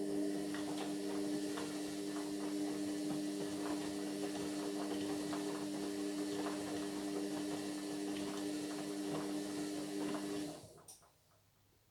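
Indesit MyTime washing machine's motor turning the drum during the wash: a steady humming whine with scattered light knocks from the tumbling load. It stops abruptly about ten and a half seconds in, with one small click just after, as the drum pauses between turns.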